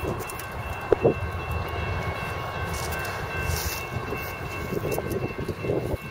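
A train rolling past with a steady low rumble, a faint steady whine over it, and two sharp knocks about a second in.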